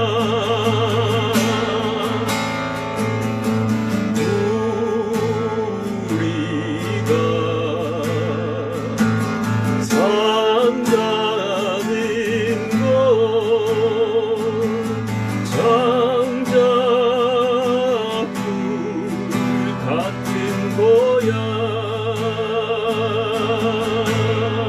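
Acoustic guitar strummed under a wordless melody of held notes with a wide vibrato, in an instrumental interlude between verses of a song.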